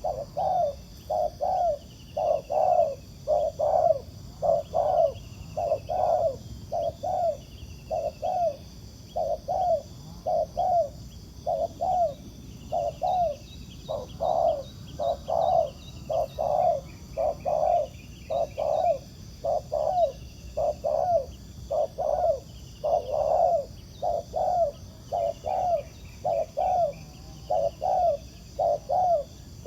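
Spotted doves cooing over and over in quick runs of short low notes, with faint chirps of small birds higher up. The coos are a wild male answering a caged decoy dove.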